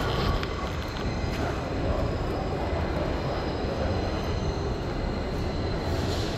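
PATH commuter train running: a steady low rumble with a faint, steady high-pitched whine above it.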